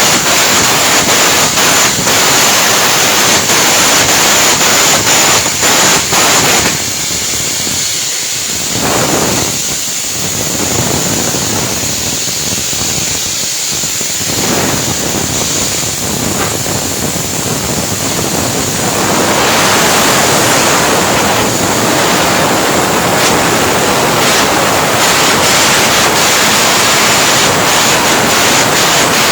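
Arc welding: the arc crackles and hisses steadily. It drops quieter for several seconds in the middle, cutting out briefly twice.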